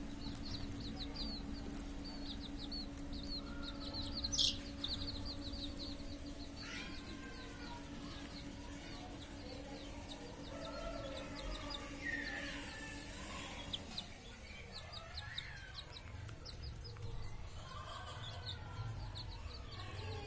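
Chickens clucking and calling, with a fast, even run of short high chirps through the first half. A steady low hum stops about two-thirds of the way in.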